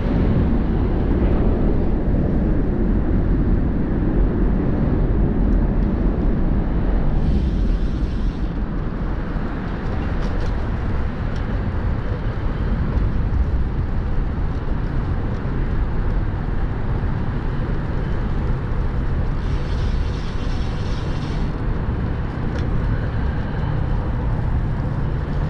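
Riding noise from a bicycle on a wet trail: wind rumbling over the phone's microphone and the tyres hissing on the wet surface. The hiss turns brighter twice, about seven seconds in and again about twenty seconds in.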